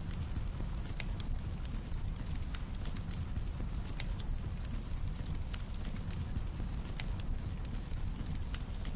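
Campfire crackling, with sharp irregular pops over a low steady rumble, while a cricket keeps up a high, fast, pulsing chirp.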